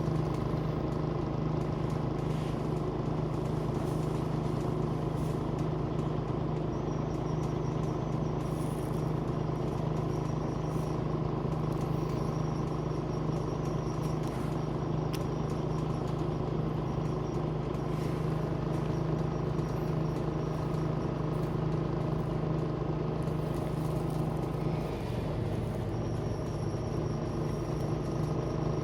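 Scania CN94UB Omnicity bus's diesel engine running at a steady speed, a constant drone that dips briefly in pitch near the end.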